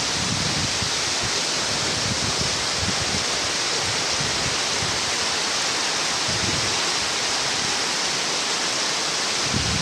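Heavy rain falling as a steady, even hiss, with low uneven rumbling underneath.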